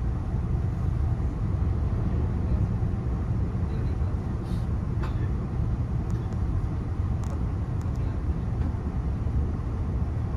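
Cabin noise of a Puyuma Express (TEMU2000 tilting electric multiple unit) running at speed: a steady low rumble of wheels on the track, with a few faint clicks about halfway through.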